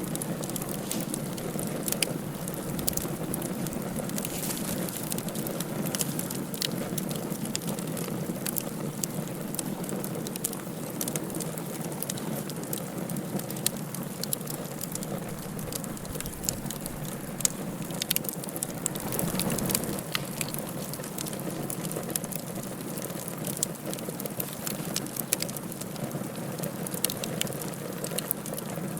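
Wood fire crackling in a fireplace: a steady hiss and rustle of flames with frequent sharp pops and snaps at irregular intervals.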